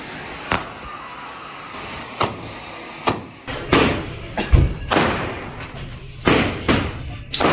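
Fireworks going off: about nine sharp bangs at irregular intervals over a steady hiss, the loudest and deepest a little past halfway.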